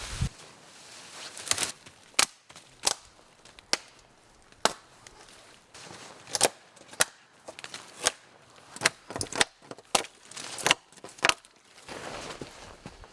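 Wood being chopped by hand: about fourteen sharp strikes at uneven intervals, some close together in pairs.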